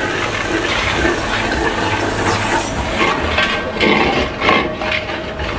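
Tomato-and-spice masala sizzling in ghee in a metal pot while a steel spatula stirs it, scraping against the pot now and then.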